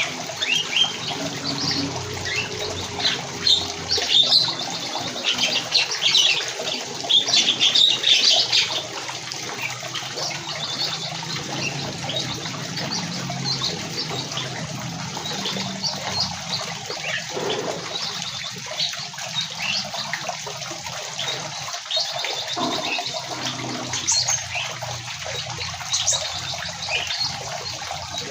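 Many aviary birds chirping over one another, busiest and loudest in the first nine seconds and sparser after, over a steady rushing hiss.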